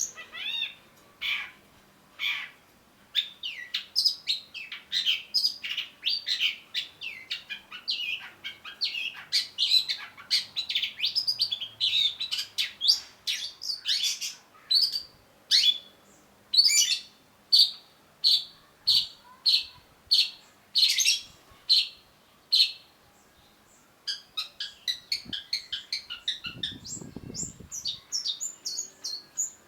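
Long-tailed shrike singing a rapid, varied run of sharp chattering notes and repeated calls, breaking off briefly near the end before going on in a fast chatter. A brief low rumble comes near the end.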